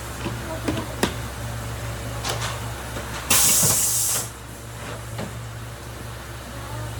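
A loud hiss lasting about a second, starting a little over three seconds in, over a steady low hum and a few scattered clicks and knocks.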